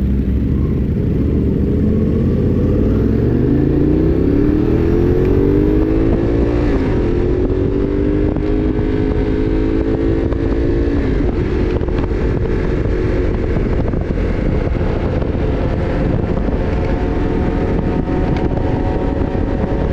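Motorcycle engine accelerating, its pitch rising over a few seconds and then holding steady at speed, with wind noise on the microphone.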